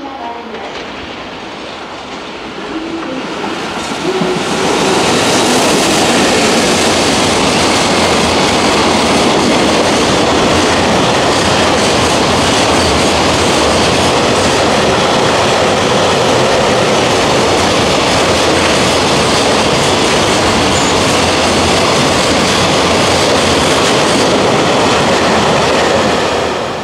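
Container freight train running through the station: steady wheel-on-rail noise that builds as the locomotive approaches, holds loud and even while the wagons pass, and drops off sharply near the end as the last wagon goes by.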